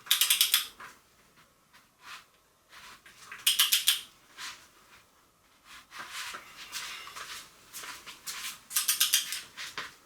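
Rapid metallic clicking in short bursts, three louder bursts about three seconds apart and softer clicks between, typical of a ratchet-type mechanism being worked.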